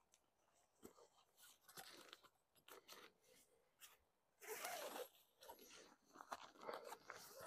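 Faint rustling and crinkling of tent fabric being handled, in scattered bursts with a louder stretch about halfway through.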